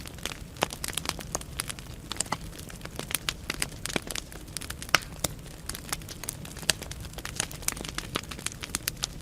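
Wood fire burning in a fireplace, crackling with many irregular sharp pops and snaps over a steady low rumble of the flames; one louder pop about five seconds in.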